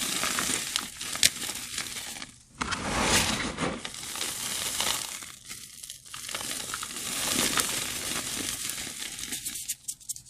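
Sand- and glitter-coated gym chalk blocks being crushed: a dry crunching and crumbling that swells and fades in several waves, with a few sharp cracks.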